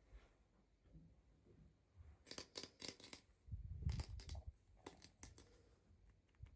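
Toy packaging being opened by hand: a quick cluster of faint crinkles and clicks about two seconds in, a few soft low thumps around the middle, then a few more clicks.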